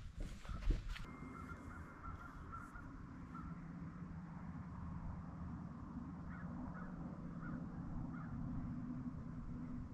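A few short, faint bird calls over a steady low hum, with a few brief knocks in the first second.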